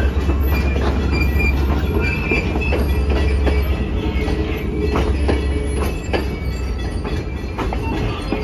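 Railroad passenger coaches rolling past: a steady rumble of wheels on rail with repeated clicks over the rail joints and brief high wheel squeals in the first few seconds. The low rumble eases about six seconds in.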